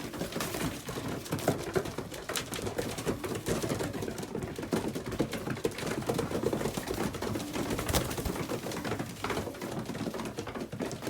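Racing pigeons pecking at grain, a rapid irregular clicking of beaks on the feed, with pigeons cooing.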